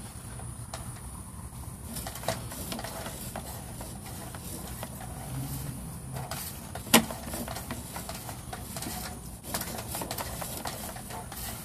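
Scattered clicks and taps over a steady low hum, with one sharp knock about seven seconds in.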